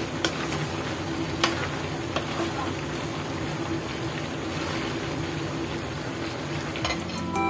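Mixed vegetables sizzling and bubbling in a pan of hot liquid while a wooden spatula stirs them, with a few sharp knocks of the spatula against the pan and a steady low hum underneath.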